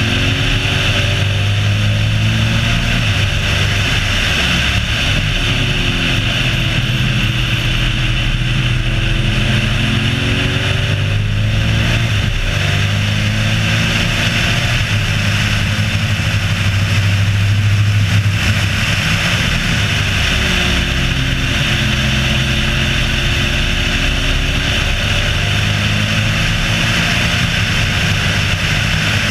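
Race car engine running hard on a track lap, its pitch rising and falling with acceleration and lifts through the corners, under a steady rush of wind and road noise.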